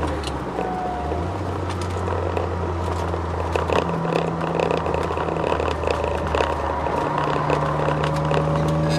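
Twin-turbo Ford Sierra XR4x4 V6 heard from inside the cabin under way on track: a steady engine drone with a whine that climbs slowly in pitch over the second half, and rattles and knocks from the cabin. The owner puts the whine down to the fully poly-bushed drivetrain and solid differential mount.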